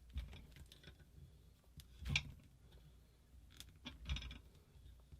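Small metal parts and hand tools being handled on a workbench: scattered light clicks and ticks, with two louder knocks about two and four seconds in.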